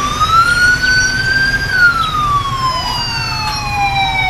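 Police siren wailing: one slow rise in pitch, then a long slide back down.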